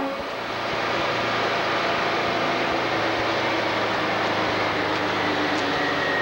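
Heavy trucks driving past in a convoy: a steady, loud rumble of diesel engines and tyres.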